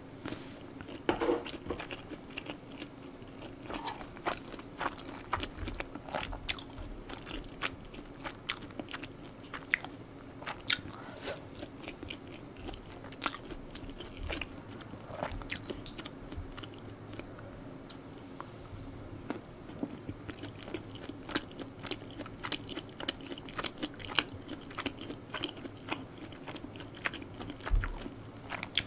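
Close-miked chewing and mouth sounds of a person eating stir-fried spicy pork and rice, with many short, sharp clicks scattered throughout.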